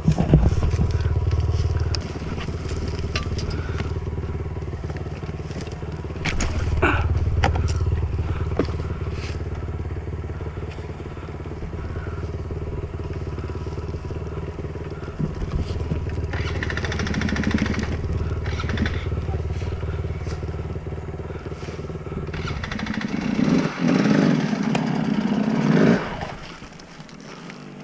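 Enduro dirt bike engine running steadily at low revs, with scattered knocks and clatter over rough ground. Near the end a louder rushing noise rises for a few seconds, then cuts off suddenly and the engine goes much quieter.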